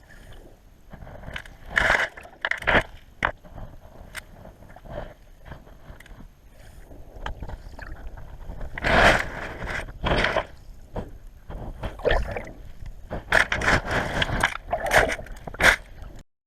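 Kayak in the water: irregular splashes and scrapes, with louder bursts here and there, that cut off suddenly near the end.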